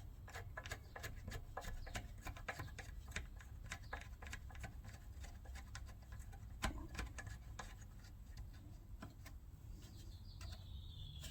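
Faint, irregular small clicks and taps of parts and fasteners being handled and fitted onto a small engine, with one sharper tap about two-thirds of the way through.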